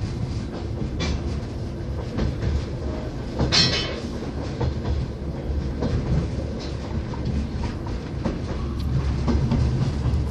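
Moving sleeper train heard from inside the carriage: a steady low rumble of the wheels on the rails with scattered rattles and clicks, and a brief louder hiss about three and a half seconds in.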